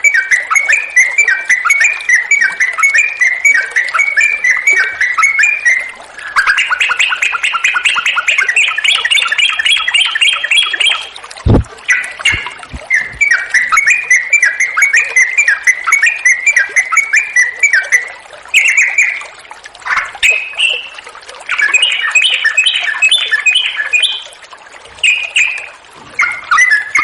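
Yellow-vented bulbul (trucukan) singing long runs of rapid, rolling chattering phrases with brief pauses between them, over faint running water. There is a single low thump about eleven seconds in.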